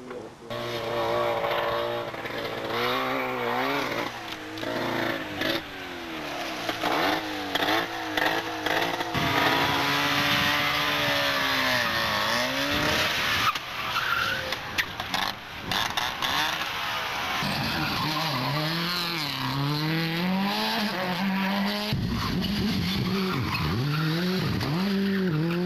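Rally cars driven hard past the microphone: engines revving up and down through gear changes, with tyre skidding. The sound changes abruptly several times as one car passage gives way to the next.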